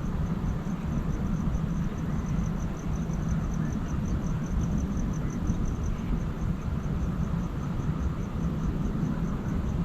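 Outdoor field-recording ambience: a steady low rumble, with a rapid high pulsing of about five beats a second and a faint bird chirp or two.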